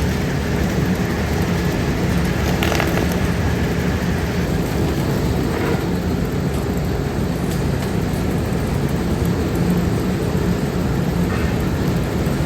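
Steady running of heavy workshop machinery with a constant low hum, and a few sharp metallic knocks about three and six seconds in.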